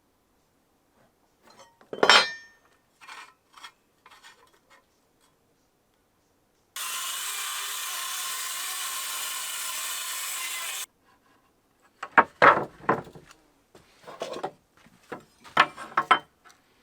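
Hand work on wood: short scraping and rasping strokes. A strong stroke comes about two seconds in, and a quick run of strokes comes near the end. In the middle is about four seconds of steady hiss that starts and stops abruptly.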